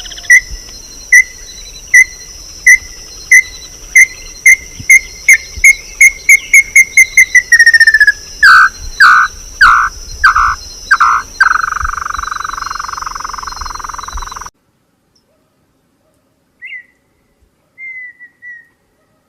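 A bird singing a run of short whistled notes that speed up and fall in pitch, followed by a few downward-slurred notes and a long held note. A steady high-pitched insect drone runs underneath. The sound cuts off suddenly about fourteen seconds in, leaving a few faint short calls.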